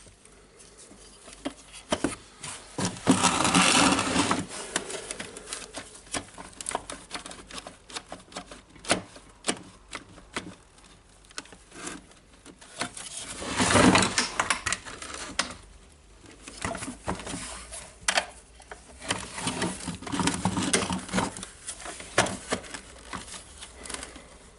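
Hand tools clicking, tapping and scraping against the plastic parts of a DeWalt DC011 site radio while a part is worked loose, with three louder spells of scraping and rattling.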